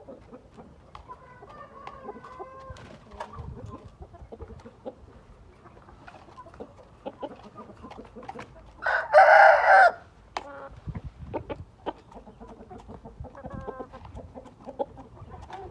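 A gamefowl rooster crowing once, loud and harsh, about nine seconds in, with softer clucking and short calls from other birds around it.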